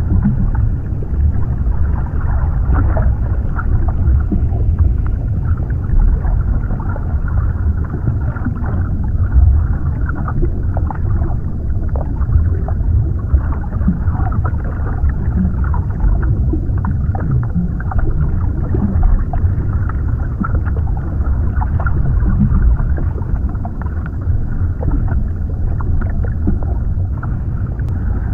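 Underwater ambience: a steady deep rumble of moving water with scattered small bubbling and gurgling sounds.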